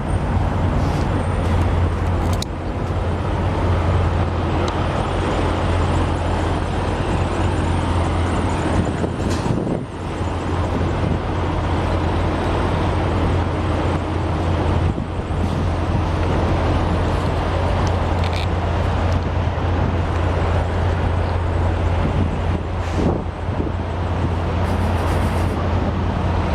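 Steady low rumble of idling diesel semi-truck engines, with traffic noise over it. The rumble dips briefly twice, about ten and fifteen seconds in.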